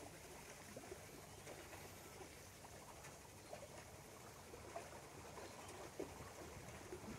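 Near silence: faint outdoor ambience aboard a near-silent electric narrowboat, with a few faint scattered ticks.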